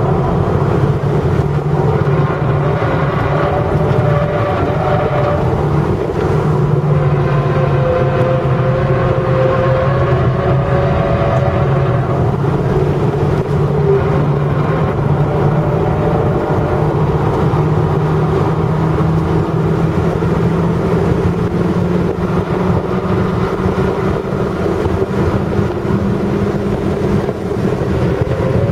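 Abarth Punto's turbocharged four-cylinder engine running steadily under load on track, heard from inside the cabin together with tyre and road noise; its pitch shifts a little now and then as the driver changes throttle and gears.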